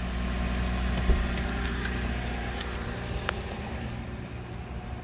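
A 2007 Toyota Avalon's 3.5-litre V6 idling steadily, growing a little fainter in the second half. A thump about a second in and a sharp click a couple of seconds later come from the trunk release being pulled and the lid popping.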